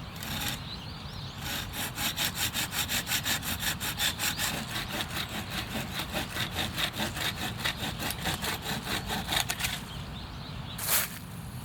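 A hand saw cutting through wood in quick, even strokes, about four or five a second, for around eight seconds. A single sharp sound follows near the end.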